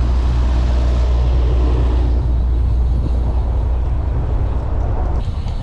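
Steady, loud low rumble of wind buffeting the camera microphone while riding a bicycle, with outdoor road noise. The sound changes abruptly about five seconds in.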